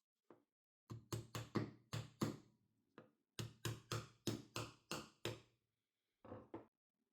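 A series of sharp knocks in quick runs: about six strikes, a short pause, then about seven more, and two more near the end.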